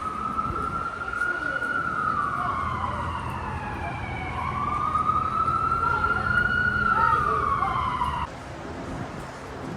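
Emergency vehicle siren wailing in two slow rise-and-fall cycles, cutting off abruptly about eight seconds in, over a low rumble of city traffic.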